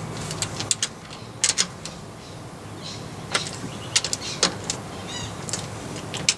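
Metal hand tools clicking and knocking as the nuts holding a rear differential centre to the axle housing are tightened and torqued, in sharp, irregular clicks.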